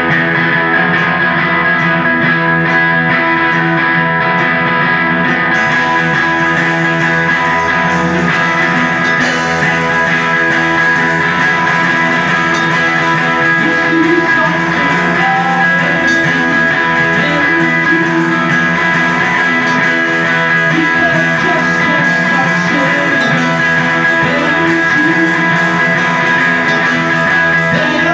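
Live rock band playing loudly, guitar-led, the opening of a song: steady held chords, with a wavering melodic line coming in about halfway through.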